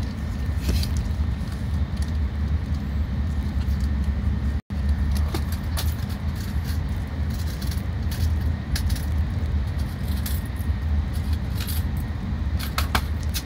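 Shinkansen cabin noise: the steady low rumble of the train running at speed, with scattered light clicks and rustles from the phone being handled against clothing. The sound cuts out for an instant about four and a half seconds in.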